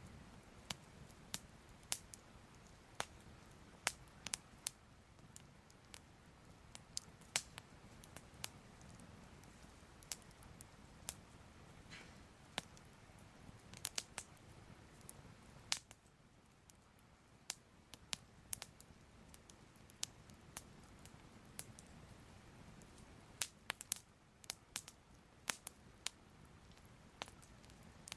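Soft crackling fire: faint, irregular small pops and crackles over a low steady hiss.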